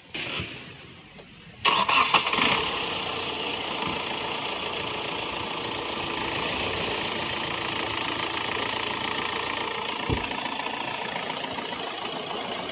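Hyundai Creta engine being started: a short sound right at the start, then about a second and a half in the engine cranks and catches, and settles into a steady idle. It runs with a temporary jumper wire on the cylinder 3 injector circuit, which had been logging an open-circuit fault, and the stumbling is a little less than before.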